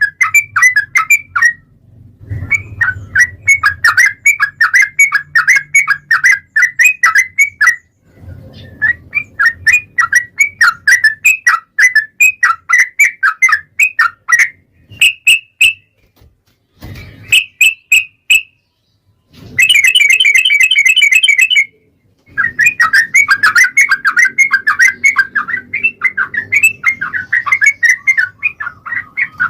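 Yellow-vented bulbul (trucukan) singing long runs of rapid, sharp chirping notes, several a second, in phrases a few seconds long with short pauses between. About twenty seconds in, a faster, higher trill comes for a couple of seconds.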